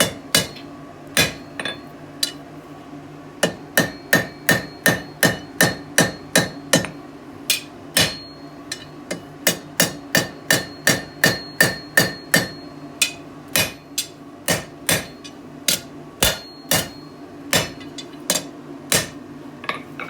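Blacksmith's hammer forging hot mild steel on an anvil: a steady run of blows, about two to three a second, each with a short metallic ring, broken by a few short pauses.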